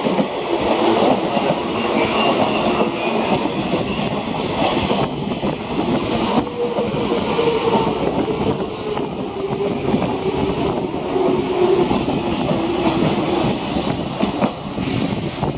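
JR East 185 series electric express train running through a station at speed, its wheels clattering steadily over the rail joints, with a whine that slowly falls in pitch.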